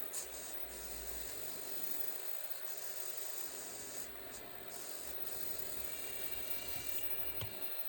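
Small servo motors of a 3D-printed robot hand running: a steady hiss with high-pitched whine bands that switch on and off as the fingers move. A single sharp click comes near the end.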